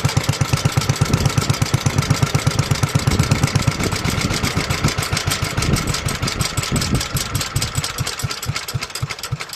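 1954 Petter A1 single-cylinder stationary engine coasting to a stop after its magneto ignition is cut: the steady chuffing beat slows and fades, its spacing widening toward the end.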